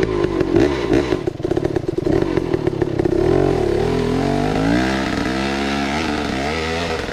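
Dirt bike engine running while riding a trail. It is fairly steady for the first few seconds, then rises and falls in pitch several times as the throttle is opened and closed.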